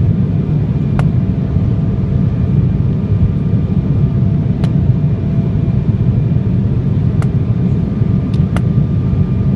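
Steady low rumble of an Embraer 175 airliner's jet engines, with faint steady whining tones over it and a few brief clicks.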